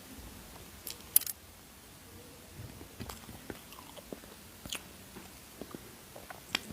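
A person biting and chewing food, with scattered crunches and small mouth clicks; a sharp crack about a second in is the loudest.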